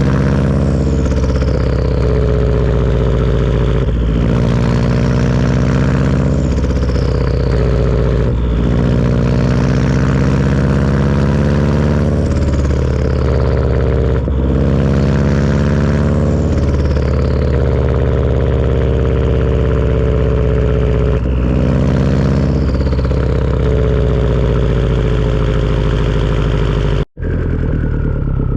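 Turbocharged Subaru flat-four with a Tomei turbo-back exhaust, pulling hard: the engine note climbs steadily and breaks off every few seconds, as at gear changes. After several of the breaks a high turbo whistle falls away. A brief dropout comes near the end.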